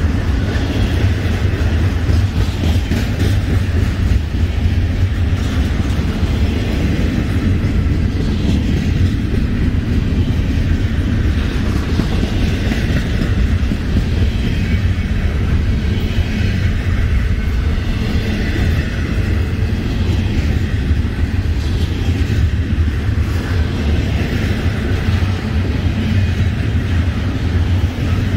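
Double-stack intermodal freight train's container well cars rolling past, a steady low rumble of steel wheels on rail.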